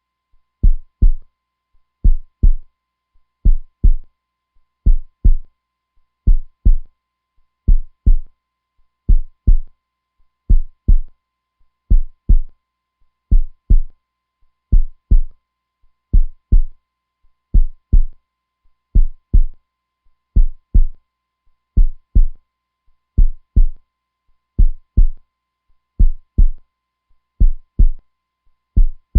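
Heartbeat, a strong steady lub-dub: pairs of low thuds a third of a second apart, repeating slowly about every second and a half.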